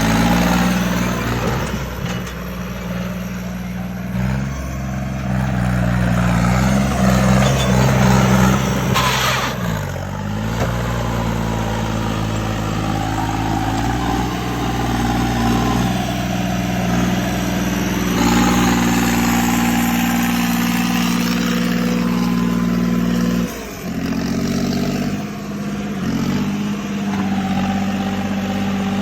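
Tractor engine running steadily, its pitch dropping briefly and coming back up several times.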